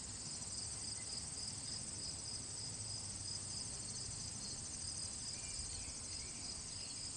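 Crickets chirping in a steady, rapidly pulsing high-pitched chorus.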